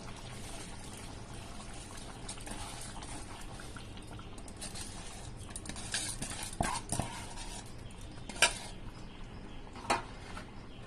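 A pot of biryani cooking with a steady bubbling hiss, and a few sharp metal clinks of a utensil against the pot in the second half, the loudest about three-quarters of the way through.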